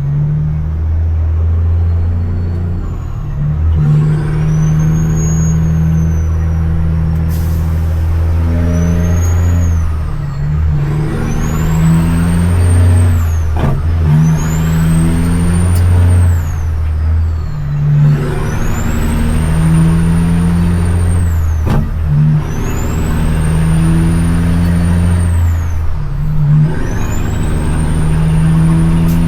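CAT C-15 diesel in a dump truck pulling hard through the gears of an 18-speed transmission. The turbo whistle rises and falls with each gear pull, about seven times, and the engine note dips briefly at each shift.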